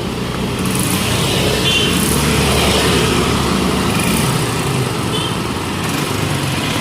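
Street traffic: engines of passing motor vehicles, including motorbikes, over a steady wash of road noise.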